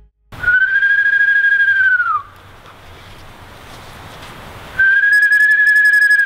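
Two long, clear whistled notes, each about a second and a half, holding nearly level in pitch and then dropping away at the end; the second starts about three seconds after the first ends.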